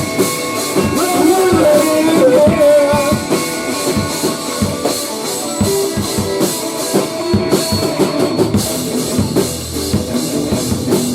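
Rock band playing an instrumental stretch with no vocals: a drum kit keeping a steady beat under guitar.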